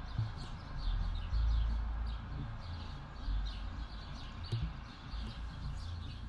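Small birds chirping again and again in short quick notes over the steady rush of river rapids, with low wind rumble on the microphone, strongest about one and a half seconds in.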